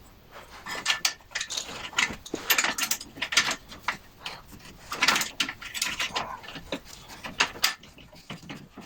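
Metal parts and hand tools being handled at a workbench: irregular clicks, knocks and scrapes.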